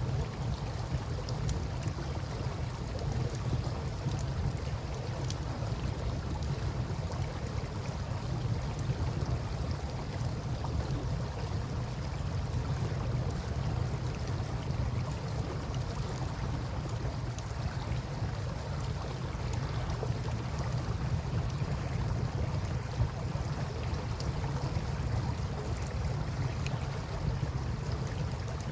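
Campfire crackling with scattered faint pops over the steady flow of river water, with a constant low rumble underneath.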